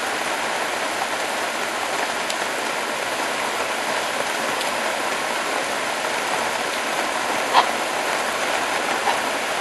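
Heavy rain pouring down steadily in a downpour, with one brief sharp sound about three-quarters of the way through and a fainter one near the end.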